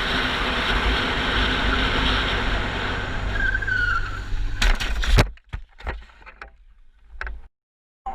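Wind and road rush of a motorcycle at speed, with a short squeal about three and a half seconds in, then a few loud impacts around five seconds in as the bike crashes on a curve taken too fast. After that come quieter scattered knocks and scrapes, then a sudden cut to silence near the end.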